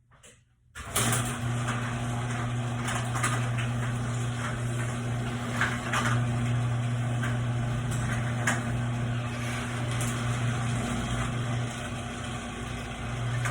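Hunter Eclipse ceiling fan running at speed, its motor giving a steady low electrical hum under a loud rush of moving air. The sound comes on suddenly about a second in.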